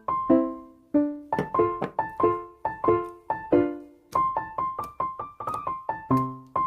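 Background music on piano: a light, bouncy tune of separate notes, about two to three a second, each one dying away.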